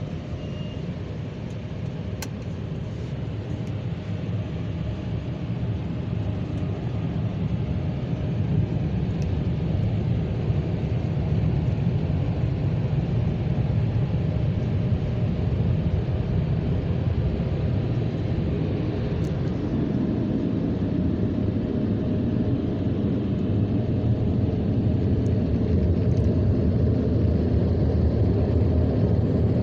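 Car wash dryer blowers running with a steady rumbling rush that grows gradually louder and fuller, thickening about twenty seconds in.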